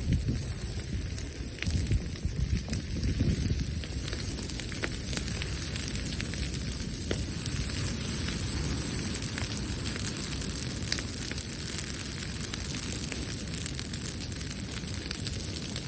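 Wood campfire burning, with scattered small pops and crackles throughout over a low rumble.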